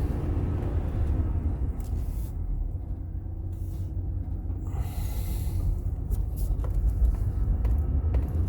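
Steady low rumble of a van's engine and tyres heard from inside the cabin as it drives slowly.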